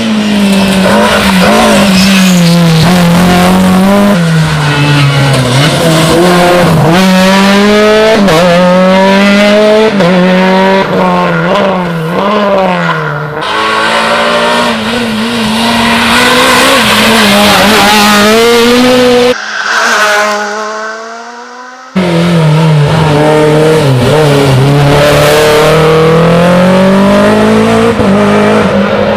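Rally car engines driven hard: revs climb and drop again and again through gear changes and braking, one car after another. The sound cuts off suddenly about two-thirds through, and after a short fading stretch another loud car takes over.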